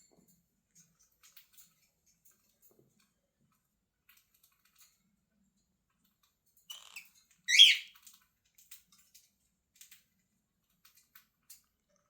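A cockatiel gives a short, shrill begging call about seven and a half seconds in, just after a softer chirp. Faint scattered clicks run through the rest.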